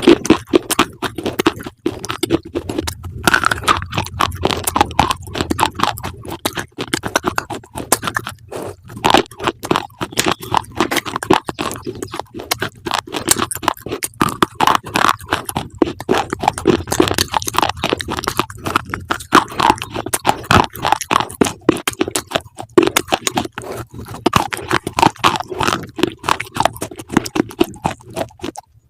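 Close-up crunching and chewing of crunchy food: dense, rapid crackling bites with no pause, stopping abruptly at the very end.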